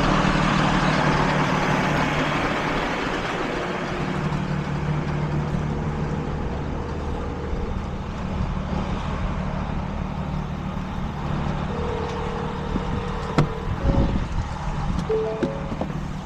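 A truck engine running steadily under a strong hiss, the hiss loudest in the first few seconds. A few short knocks come near the end.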